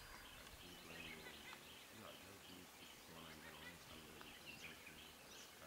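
Quiet bush ambience: small birds chirping faintly now and then.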